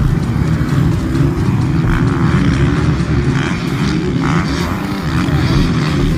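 Several motocross bikes' engines running hard at high revs together as the pack races off the start.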